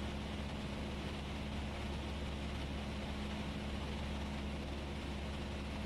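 Steady cockpit noise of a Cessna 172S in flight: the four-cylinder Lycoming engine's even drone with a constant low hum and airflow hiss, unchanging throughout.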